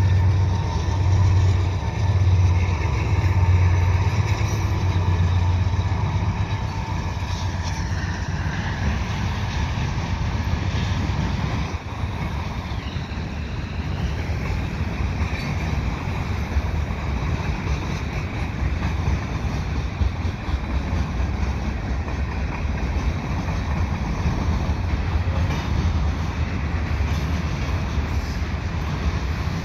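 Freight train passing: the diesel locomotives' deep engine drone is strongest in the first few seconds, then gives way to the steady rumble and clatter of freight cars rolling by.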